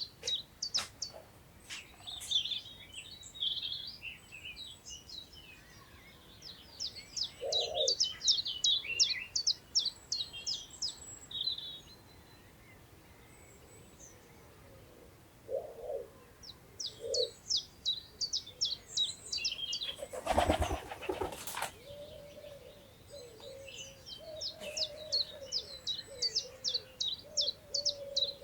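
Small songbirds singing repeated fast trilled phrases, each a second or so of rapid high notes, with a pigeon cooing low a few times and a lower wavering call near the end. About 20 seconds in, a brief whirring burst lasting about a second and a half is the loudest sound.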